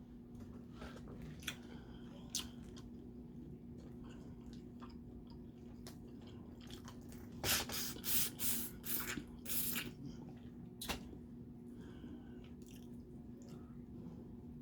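Close-miked eating of boiled crawfish: wet chewing and smacking with scattered small clicks, and a run of louder crunches and smacks from about seven and a half to ten seconds in. A steady low hum runs underneath.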